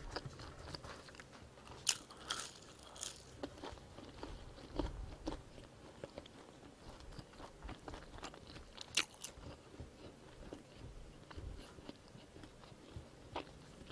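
Close-miked mouth sounds of someone chewing a seasoned french fry, quiet wet chewing with scattered crisp clicks; the sharpest come about two seconds in and again about nine seconds in.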